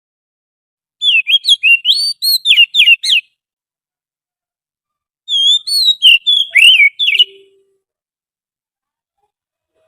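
Oriental magpie-robin song, a recorded lure call: two phrases of quick, loud whistled notes sliding up and down, each lasting about two seconds, with a silent gap of about two seconds between them.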